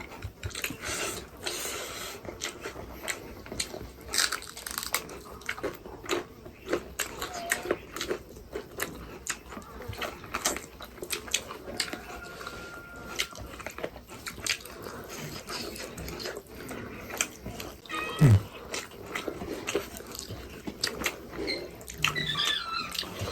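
Close-up chewing and biting of dried meat (sukuti), with many crisp clicks and wet smacks. About 18 seconds in there is one loud, short low sound falling in pitch.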